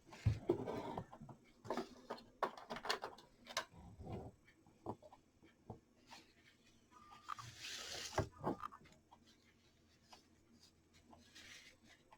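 Hands handling and wrapping ribbon around a clock part: scattered light taps and knocks, with two short rustles of ribbon being pulled, about eight seconds in and near the end.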